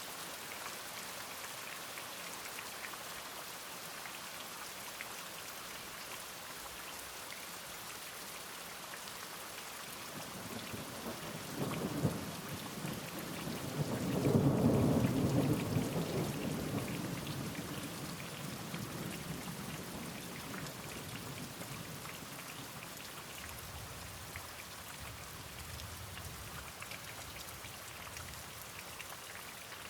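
Steady rain with a thunderclap: a sharp crack about twelve seconds in, then a long low rumble that swells and slowly dies away. A fainter rumble of thunder follows later.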